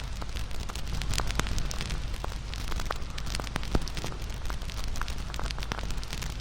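Wood fire crackling, with frequent irregular sharp pops over a steady low rumble; one louder pop a little past halfway.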